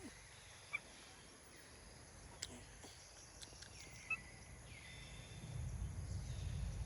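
Outdoor forest ambience: a steady high insect drone, with a few short high chirps and small clicks scattered through. About five seconds in, a low rumble builds up.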